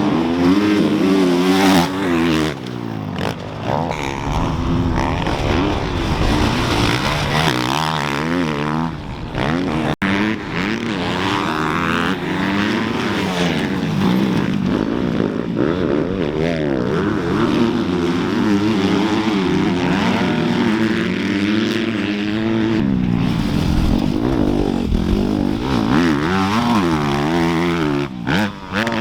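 Several dirt bike engines racing, their pitch rising and falling as the riders rev, accelerate and shift, with a brief break about ten seconds in.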